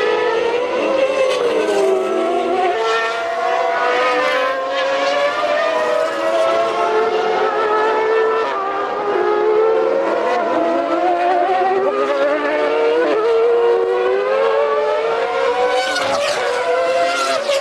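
Formula One race car engines running at high revs, several at once. Their pitch climbs through the gears and drops again on braking and downshifts.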